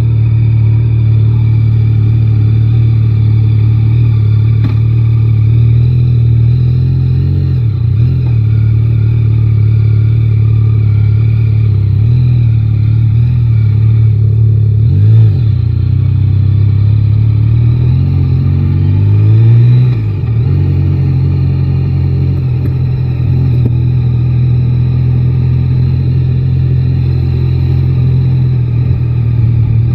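Yamaha Tracer 9 GT's engine running at a steady low speed, with short swells in revs about a quarter of the way in, halfway, and about two-thirds in.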